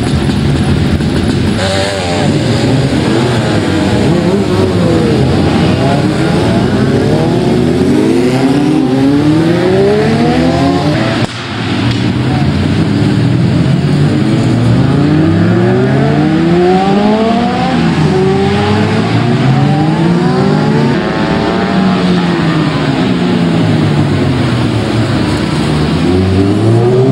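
Several racing motorcycle engines running hard at a race circuit, their pitch climbing and dropping again and again as they accelerate through the gears and ease off, with the engine notes overlapping. The sound dips briefly about eleven seconds in.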